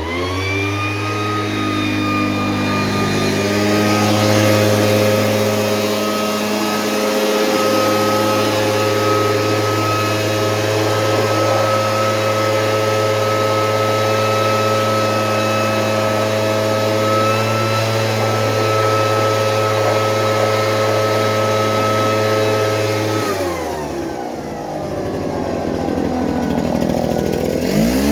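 Small pull-start gas engine of a Frontier OS23 portable bandsaw mill revving up and running at a steady high speed. Near the end it drops back toward idle, then starts to rev up again just before the end.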